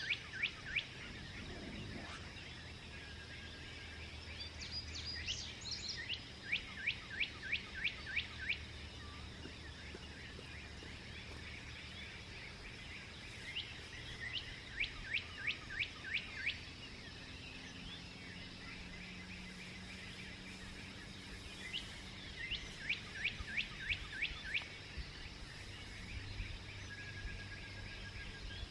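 A songbird singing: bouts of about ten quick, down-slurred notes in a row, each bout two to three seconds long and repeated roughly every eight seconds, with other birds chirping faintly between. A steady low rumble runs underneath.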